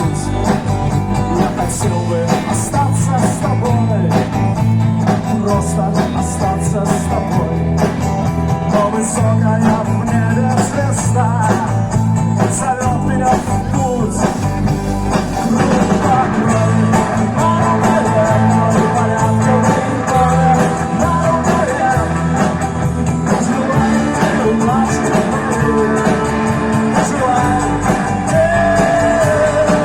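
Live band playing a rock-style song: drum kit with steady cymbal beats, bass guitar and electric guitar carrying a melodic line.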